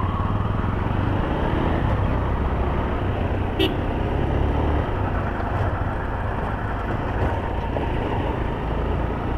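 Honda CB Hornet 160R's single-cylinder engine running steadily under way, heard over road and wind noise on the move. About three and a half seconds in there is one brief sharp sound, likely a short horn toot.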